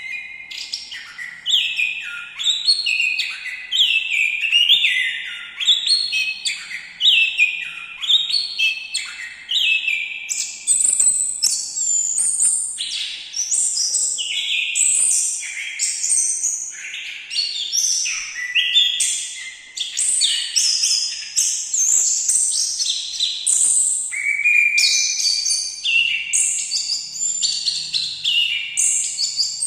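A thrush of the kind Indonesian keepers call anis singing a long, continuous song of rapid, varied whistled phrases, most of them slurring downward.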